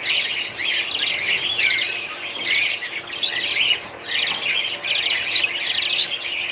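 A flock of budgerigars chirping and warbling, many overlapping calls without a break.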